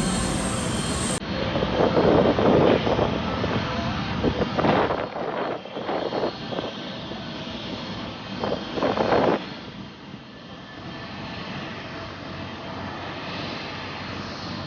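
Jet aircraft engine noise: a wide rushing sound that surges unevenly for the first nine seconds or so, then drops to a steadier, quieter rumble.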